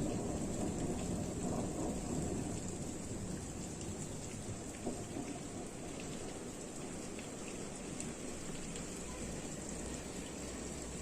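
Distant thunder rumbling and fading away over the first few seconds, over a steady rain shower with faint scattered drop ticks.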